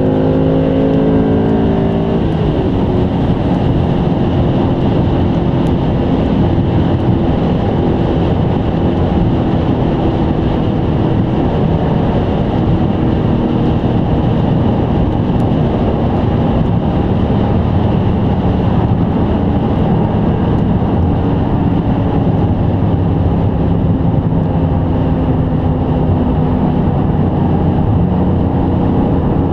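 BMW E39 M5's V8 heard from inside the cabin at motorway speed. The engine note rises for about two seconds, drops in pitch, then settles into a steady cruise over constant tyre and road noise.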